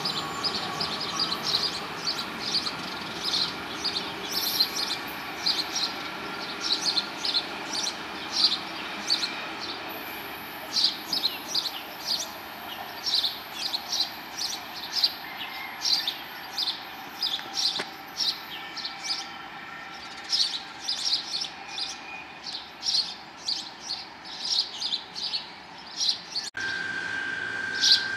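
Small birds chirping repeatedly, one or two short chirps a second, over the fading rumble of a departing Amtrak passenger train. Near the end a steady high tone comes in.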